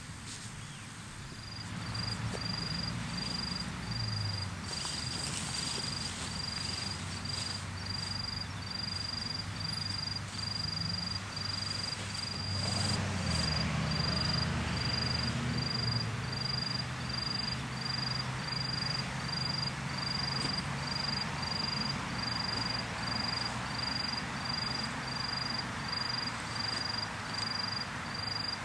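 A cricket chirping steadily at one high pitch, a little more than one chirp a second, over a low hum and a soft steady hiss.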